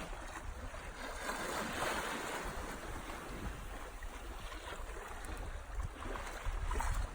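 Sea water rushing and splashing past a sailboat's hull under way, with wind buffeting the microphone as a low rumble. The wash swells louder about a second in.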